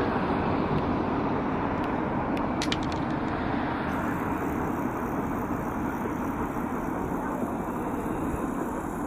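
Train rolling past at track side: a steady rumble of wheels on the rails, with a few short clicks about two and three seconds in.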